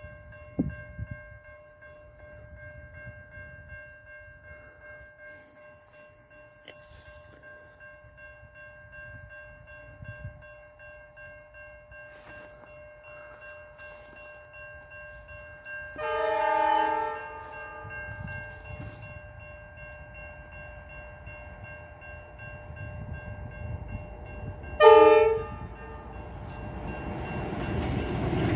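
Train horn sounding twice, a blast about a second and a half long a little past the middle and a short, louder toot near the end. Train rumble grows steadily louder in the last few seconds. A steady high-pitched tone runs underneath.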